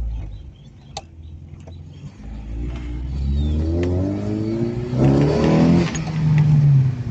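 VW Fox's 1.9-litre fuel-injected engine, breathing through a new exhaust system, accelerating. After a low rumble the note climbs steadily in pitch for about three seconds, is loudest from about five seconds in, then eases off near the end.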